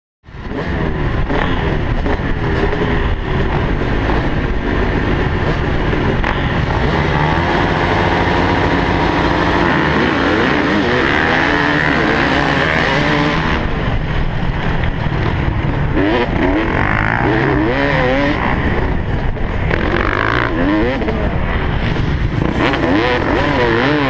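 Motocross bike engines running hard, their pitch rising and falling with throttle and gear changes, several at once. The sound starts suddenly and stays loud throughout.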